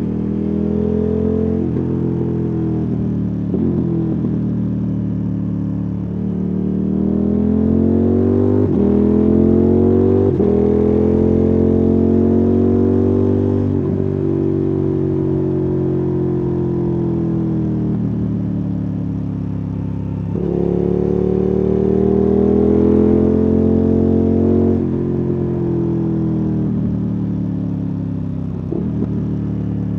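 KTM 1290 Super Adventure S's V-twin engine and exhaust under way, the revs climbing and falling as the bike accelerates and rolls off. Several sudden jumps in pitch mark gear changes, with a long slow drop in revs midway.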